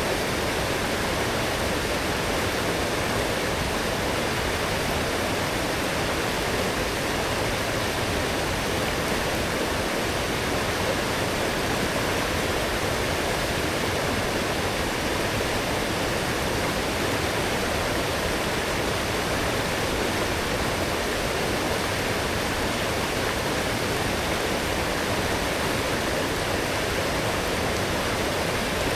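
Forest stream running full and strong after heavy rain: a steady, even rush of flowing water.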